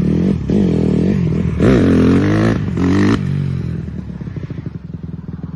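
Dirt bike engine revving in several quick rises and falls, loudest about two to three seconds in, then dropping back to a lower, evenly pulsing low-rev run.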